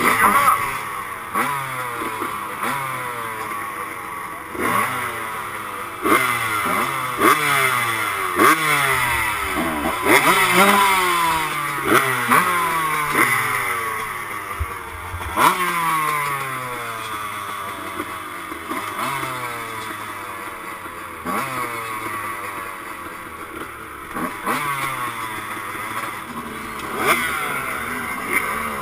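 1996 Honda CR125 two-stroke single-cylinder dirt bike engine running hard on a motocross track, its pitch climbing and dropping again and again as the throttle is worked and it shifts through gears, with frequent sharp knocks and rattles.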